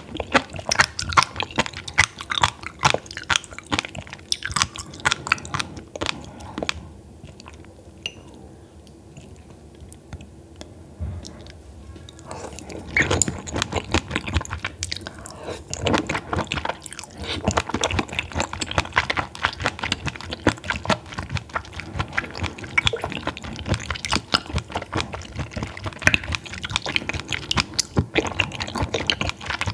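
Close-miked chewing of raw baby squid sashimi: a dense run of small clicks, dropping to a quieter lull about a quarter of the way in before picking up again.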